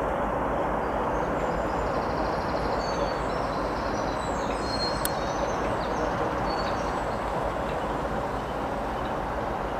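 Train running past: a steady rumble of wheels on rail with faint high squeaks, slowly easing off.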